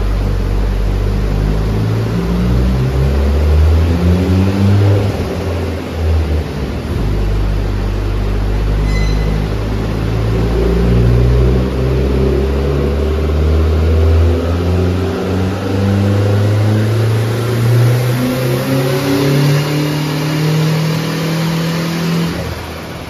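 Turbocharged 8-valve engine of a MK3 Golf GTI under hard acceleration. The revs climb, drop at a shift about six seconds in, then climb steadily for around fifteen seconds before falling off near the end.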